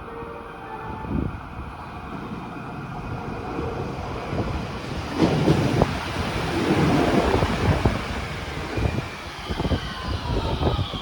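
Electric train running past on the rails, a steady rumble with repeated knocks from the wheels, louder about halfway through, and a falling whine near the end. Wind buffets the microphone.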